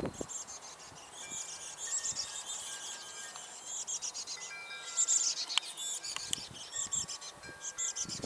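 Chickadee nestlings begging for food: a dense, high-pitched chorus of calls that swells and fades in waves, with a couple of sharp clicks in the second half.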